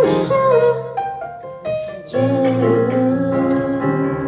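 Live pop song performance: the singer's held note trails off in the first half second, then the band plays an instrumental passage of sustained keyboard chords.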